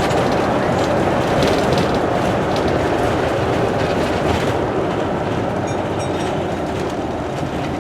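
Steady road and engine noise inside a moving RV, fading a little toward the end.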